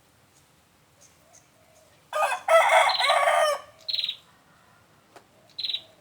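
A rooster crows once, about two seconds in, the loudest sound, lasting about a second and a half. Two short high chirps sliding down in pitch follow, from the prenjak (prinia) call played as a bird lure.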